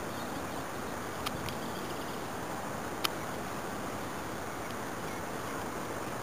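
Steady outdoor background noise with wind on the microphone, broken by a few short sharp clicks, the loudest about three seconds in.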